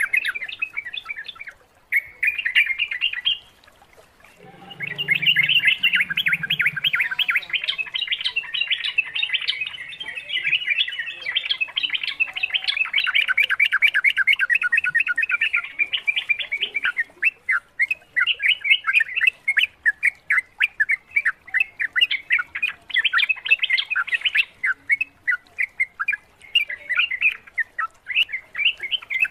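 Yellow-vented bulbuls (trucukan) chirping in a fast, continuous run of bright notes, with a short pause about four seconds in.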